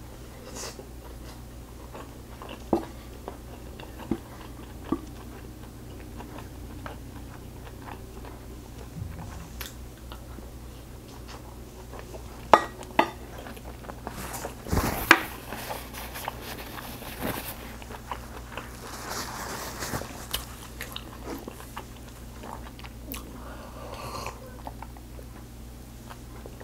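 Close-up chewing of a mouthful of stir-fried kimchi with rice, with scattered short clicks and a few louder ones about halfway through.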